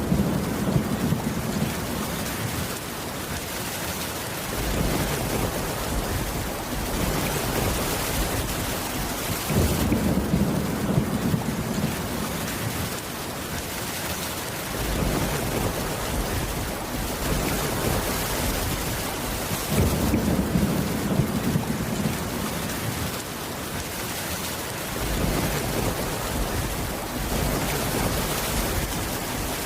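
Steady rain with low thunder rumbles swelling up about every ten seconds.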